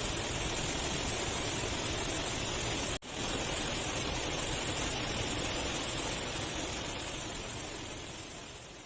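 A steady, even rushing noise, broken off for an instant about three seconds in, that fades out gradually near the end.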